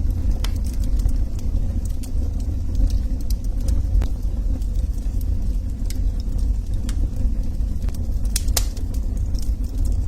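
Log fire burning: a steady low rumble of flames with scattered sharp crackles and pops, a couple of louder pops near the end.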